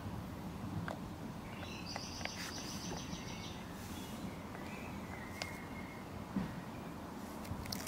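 Quiet outdoor background with a bird trilling, a rapid run of high notes lasting under two seconds about two seconds in, then a shorter, lower whistled note later on.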